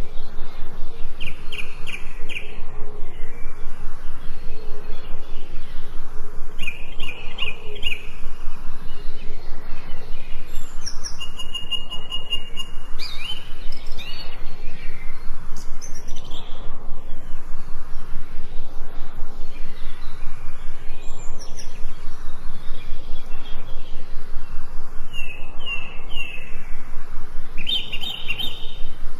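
Forest songbirds singing: short trilled phrases repeated every few seconds, over a steady low background noise.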